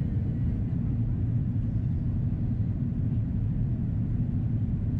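Steady low cabin rumble of an Airbus A330-300 in descent, engine and airflow noise heard from inside the cabin.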